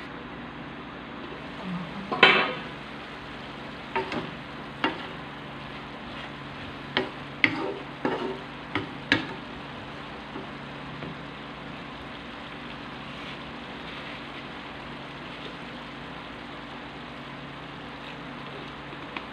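Diced pork frying in a wok, with a steady sizzle. About two seconds in there is one loud clank of metal, likely the lid coming off, then a run of knocks and scrapes as a wooden spatula stirs the meat against the pan, dying away after about nine seconds.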